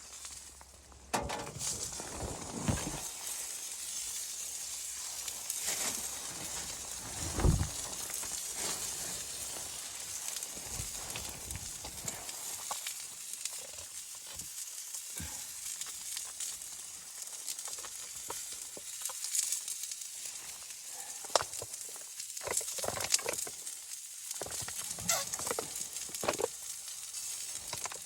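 Food sizzling in a hot pan, a steady frying hiss with scattered clicks and soft knocks of handling, and one louder thump about seven seconds in.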